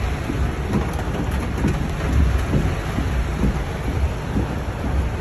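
Heavy rain drumming on a car's roof and windows, heard from inside the car: a steady, dense patter over a low rumble.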